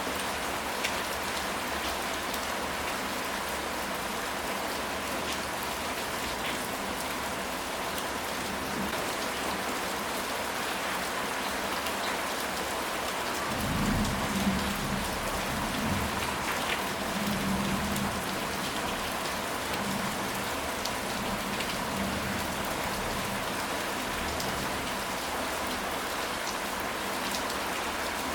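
Steady rain falling, with scattered sharper drop ticks. About halfway through, a low rumble of thunder swells and fades over a few seconds.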